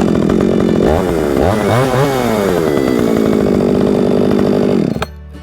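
Two-stroke chainsaw running just after a one-handed pull start, revved up and down about three times between one and two and a half seconds in, then running steadily until it cuts off near the end.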